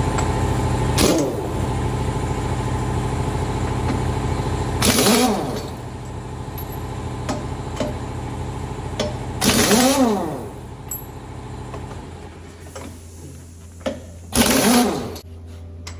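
A 1-inch pneumatic impact wrench hammering off dump-truck lug nuts in four short bursts, each rising and falling in pitch as the tool spins up and winds down. A steady machine hum runs underneath.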